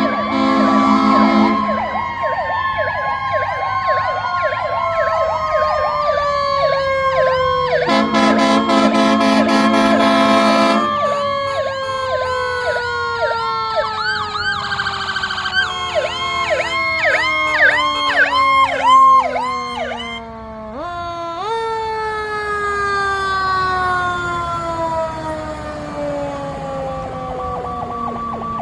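Fire truck sirens as the apparatus pull away: a mechanical siren winds slowly down in pitch, is pushed back up briefly around two-thirds of the way through, then coasts down again, over fast-cycling electronic yelp sirens. A long air horn blast sounds about a third of the way in, with a short one at the very start.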